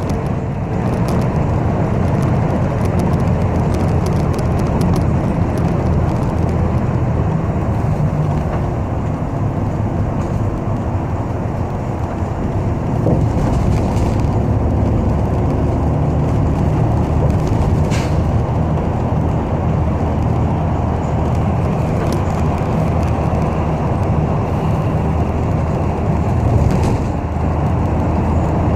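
City bus heard from inside the cabin while driving: a steady low rumble of engine and road noise, with a couple of brief clicks midway.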